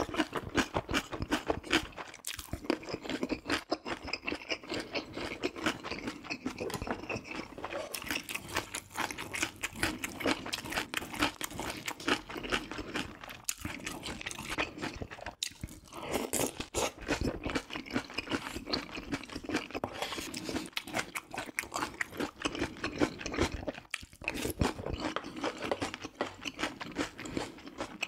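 Close-miked mukbang eating: a person chewing and biting food, with rapid wet, crunchy clicks that go on almost without a break.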